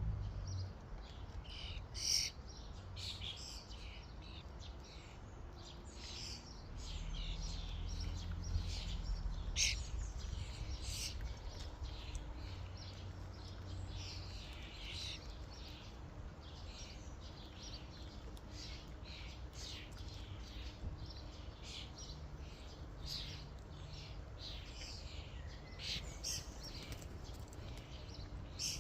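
Common starlings chirping and calling in a continuous jumble of short, rapid notes. A low rumble swells underneath for a few seconds about a quarter of the way in.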